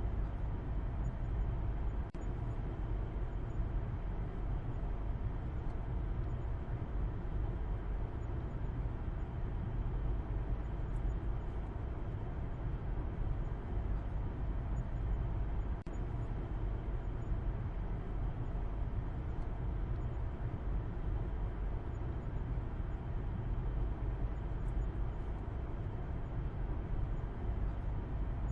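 Steady low rumble of a car driving: continuous road and engine noise, strongest in the deep bass, with a brief dip in level about two seconds in and again about halfway through.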